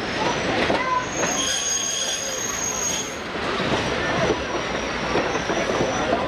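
Passenger train running, heard from inside the coach: wheels rumbling and clattering on the rails, with a high steady wheel squeal from about one second in to about three seconds in.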